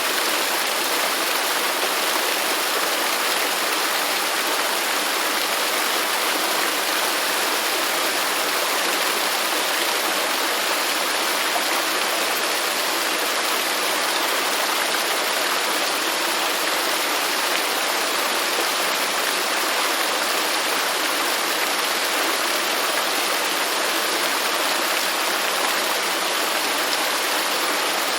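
Waterfall: a steady rush of falling water, an even hiss with little deep rumble, unchanging throughout.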